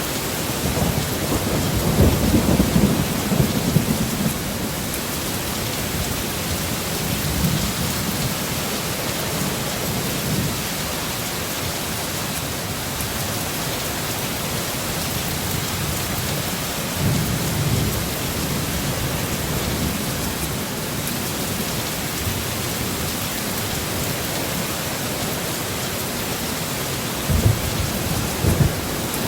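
Heavy rain falling steadily, with rolls of thunder rumbling underneath. The loudest rumble comes in the first few seconds, and two short, sharper low thumps come near the end.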